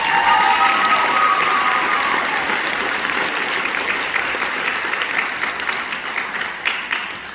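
Audience applauding for an award winner, the clapping dying away near the end.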